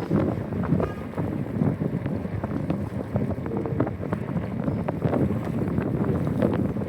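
Wind buffeting the microphone of a camera carried on a moving bicycle, a rough, gusting rumble.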